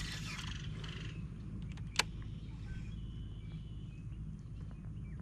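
Open-air ambience with a steady low rumble, chirping bird calls in about the first second, and a single sharp click about two seconds in.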